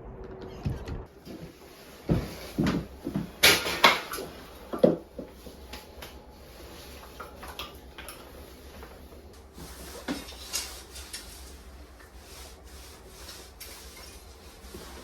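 A run of knocks and clatters as hard objects are handled and set down, loudest from about two to five seconds in, then a few lighter knocks.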